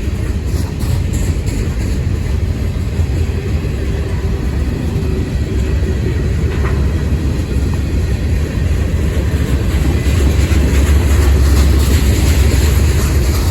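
CSX manifest freight train's cars rolling past, a steady heavy rumble of wheels on rail that grows a little louder near the end.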